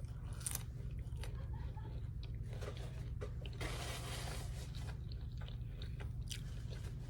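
A person chewing and biting fast food close to the microphone, with small scattered mouth clicks and a noisy stretch of about a second near the middle. A steady low hum runs underneath.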